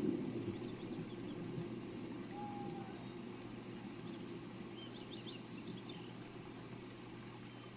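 Steady rain with a deep rumbling hiss, slowly growing quieter. Faint high bird chirps come through it, with a quick run of them about five seconds in.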